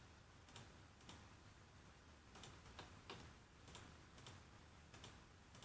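Faint computer mouse clicks at an irregular pace, several of them bunched around the middle, over a low steady hiss.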